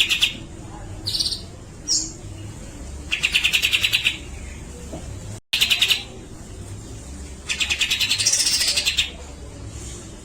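Cucak jenggot (grey-cheeked bulbul) singing in bursts of rapid chattering notes, each about a second long and repeated several times, with short single calls between them.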